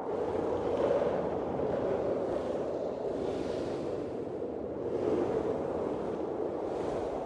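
Blizzard wind blowing in gusts: a steady rushing that swells and eases, with hissier gusts about three and a half and five seconds in.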